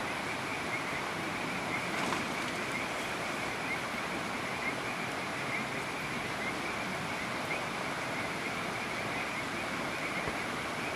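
Steady rain on the tent, an even hiss, with a high, continuous chirring over it.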